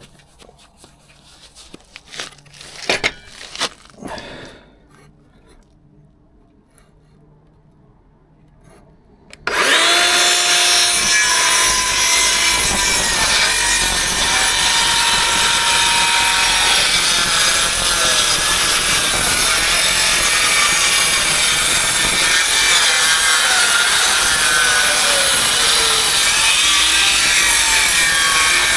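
A few knocks and clicks, then about nine seconds in a cordless circular saw starts and runs loudly, cutting through timber. Its motor pitch dips and wavers as the blade is loaded.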